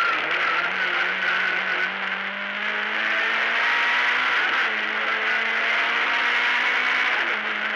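Lada 1600 rally car's engine accelerating under load, heard from inside the cabin. Its pitch climbs steadily, then drops at an upshift a little past halfway and again near the end.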